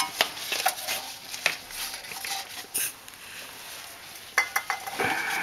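Scattered metallic clinks and knocks as the AE86's manual gearbox is pulled back off the engine and lowered on a jack, with a brief rustle about five seconds in.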